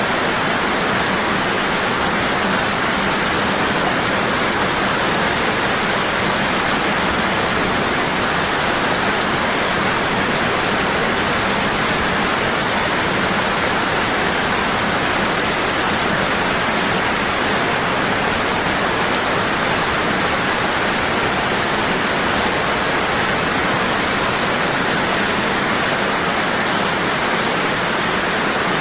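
Waterfall: water falling hard and steadily, a constant even rush with no breaks.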